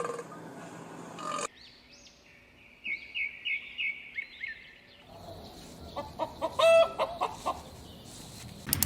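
Bird calls: a quick series of short, high chirps, about three a second, then a few louder, lower calls with the loudest near the end.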